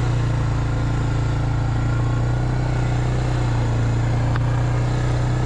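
Four-wheel-drive vehicle's engine running steadily, a constant low hum, with a faint click about four seconds in.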